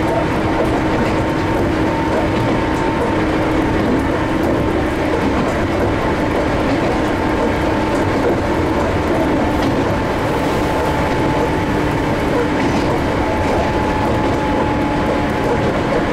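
Ohmi Railway 800 series electric train running between stations at a steady pace, heard from inside the front of the train: even wheel-and-rail running noise with a steady hum from the running gear.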